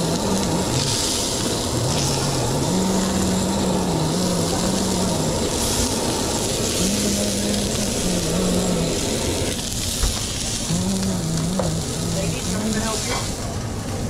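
Steady hiss of frying in a restaurant kitchen, with a low voice heard on and off through it.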